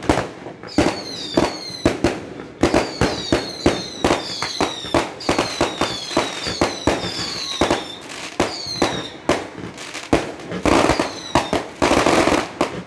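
Fireworks going off in quick succession: many sharp bangs, with short high whistles falling in pitch heard among them.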